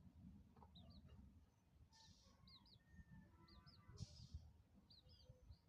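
Faint peeping of chicks, short high chirps coming mostly in pairs every second or so, over a low rumble.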